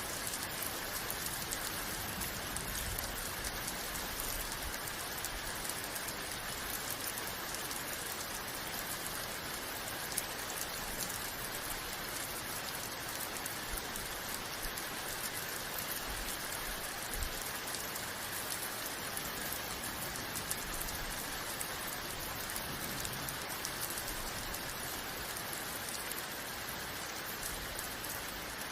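Steady, heavy rain falling and pattering on a surface, an even hiss with scattered louder drop taps.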